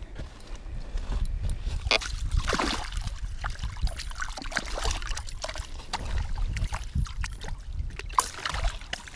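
Water sloshing and splashing in an ice-fishing hole as a hooked fish is landed, with scattered knocks and scrapes throughout and stronger splashes about two seconds in and again near the end.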